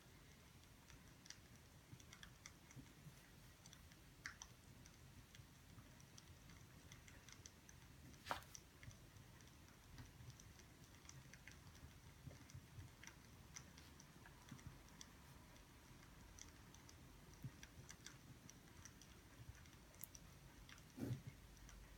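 Near-quiet room with faint, scattered small clicks and ticks, a sharper tick about eight seconds in and a low knock near the end.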